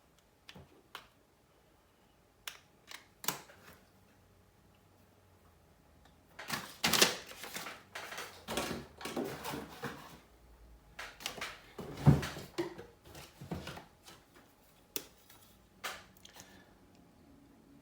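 Plastic pry tool clicking and scraping against a Samsung Galaxy Note 3's plastic case as it is pried open: scattered sharp clicks, with two busier stretches of rapid clicking and scraping in the middle.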